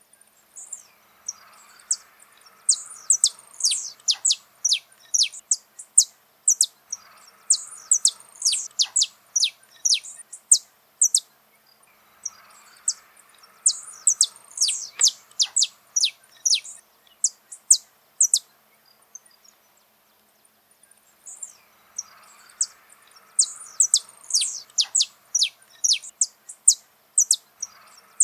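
Saffron finch singing: three long bouts of rapid, high chirps that each fall steeply in pitch, separated by pauses of a second or two.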